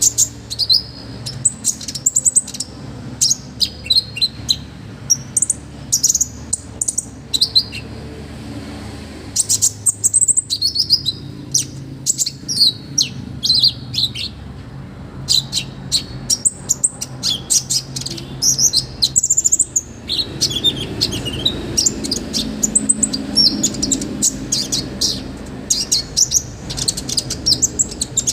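A konin (kolibri ninja, the olive-backed sunbird) singing non-stop in rapid phrases of high, sharp chirps and trills, with short pauses between phrases.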